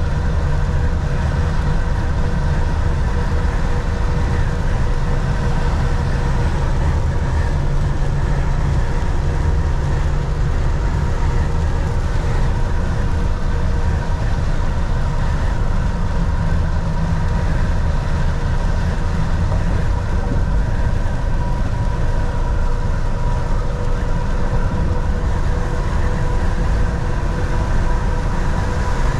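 Volvo VNL 760 semi truck driving, heard inside the cab: a steady low engine drone with road noise, and a faint steady whine over it.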